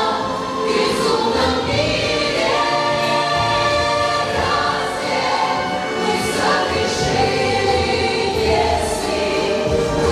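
A group of voices singing together over a musical accompaniment, with long held notes.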